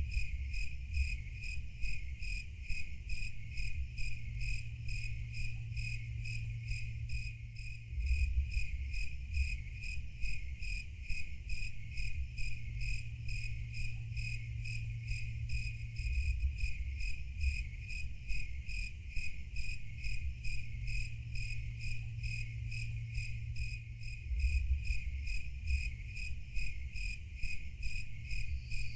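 Cricket chirping steadily, a high pulsed chirp repeated evenly about two to three times a second, over a low background rumble.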